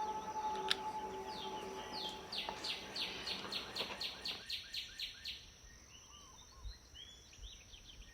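Faint bird song: a rapid trill of short descending notes, then a few scattered short chirps. Under the first half there is light pen-on-paper scratching, which stops about four and a half seconds in.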